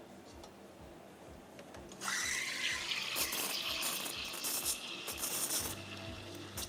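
Espresso machine steam wand opening about two seconds in: a loud hiss with a rising, then steady whistle, surging unevenly as it runs.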